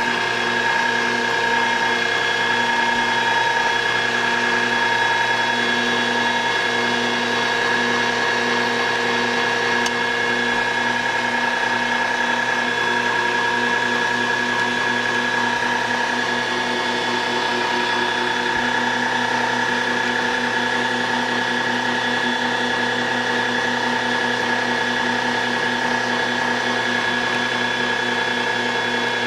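Electric meat grinder running steadily, its motor giving a constant hum with a high tone held throughout.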